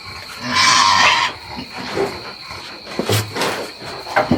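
A short, harsh animal call lasting under a second, about half a second in, over a steady high-pitched insect drone.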